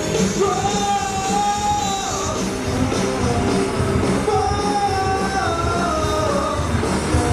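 Rock song with a singer holding long notes that slide up and down, over a steady band beat.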